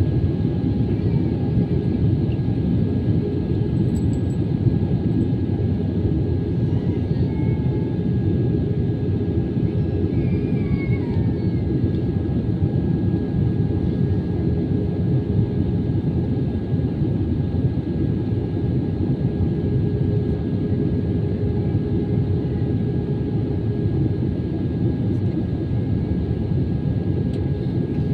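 Cabin noise of an Airbus A320-214 taxiing after landing: a steady low rumble with a steady whine over it, its CFM56 engines at idle.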